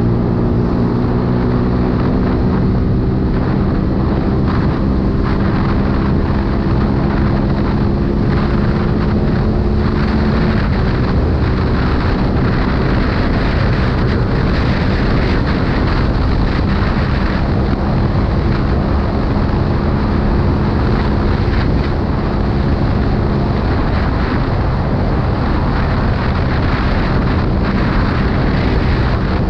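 CFMoto 250 CL-X single-cylinder engine running at a steady pitch while the motorcycle is ridden, under heavy wind noise on the microphone. The engine note drops about a third of the way in, and near the end the wind rush covers most of the engine.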